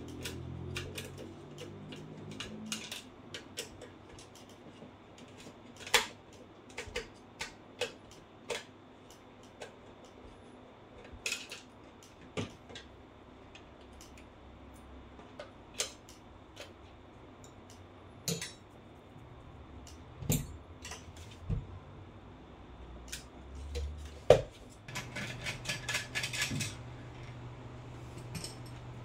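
Irregular sharp clicks and light clattering of tools and small hard parts being handled. Near the end comes a denser burst of rattling.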